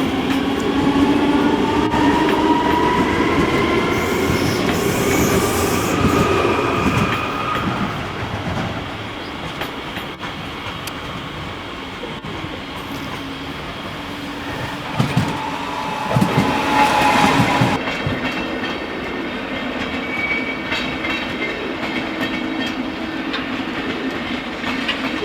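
A train running past on the tracks, with a whine that rises in pitch over the first several seconds as it picks up speed, and wheels clattering over rail joints. About fifteen seconds in come a few sharp knocks and a short burst of hiss and squeal.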